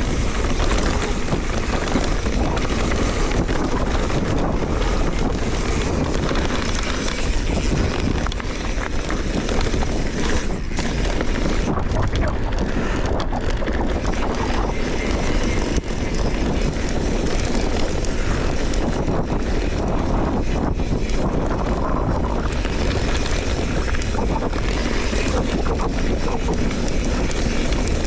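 Wind rushing over the microphone during a fast bicycle ride down a dirt trail, with steady tyre noise and frequent small knocks and rattles from the bike over rough ground.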